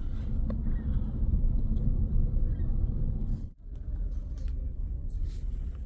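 Steady low rumble of a car heard from inside the cabin, broken by a short drop about three and a half seconds in.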